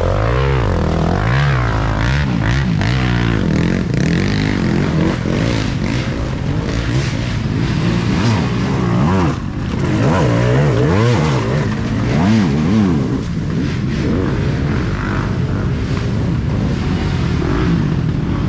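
Several off-road racing dirt bikes running hard at once, their engines overlapping and repeatedly revving up and dropping back as the riders work the throttle.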